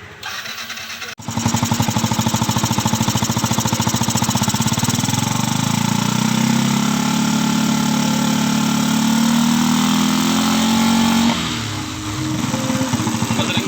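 Yamaha FZ motorcycle's single-cylinder engine running with fast, even firing pulses, starting abruptly about a second in and dropping slightly in level near the end.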